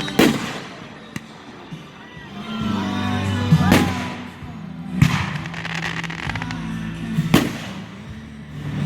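Aerial fireworks bursting in four loud bangs, with a rising whistle just before the second one and music playing underneath.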